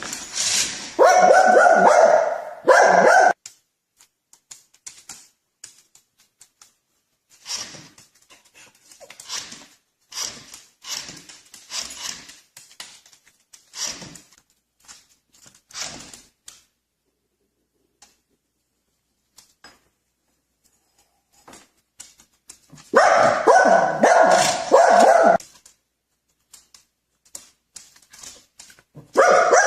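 A dog barking and vocalizing in loud bursts at the start and again about 23 seconds in, with quieter short sounds between.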